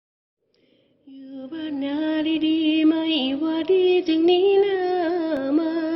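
A woman singing unaccompanied or nearly so in Thai luk thung style, opening with a long held, wavering note full of vocal ornaments that starts about a second in.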